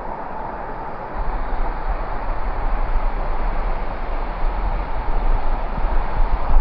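Waterfall pouring close to the microphone: a steady rushing noise with a heavy low rumble that grows stronger about a second in.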